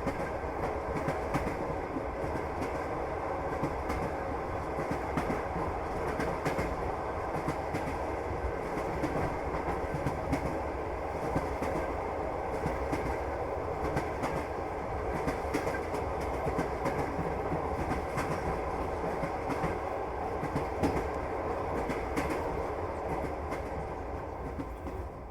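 Passenger train running along the track: a steady rumble with frequent irregular clicks of the wheels over the rails, easing off slightly near the end.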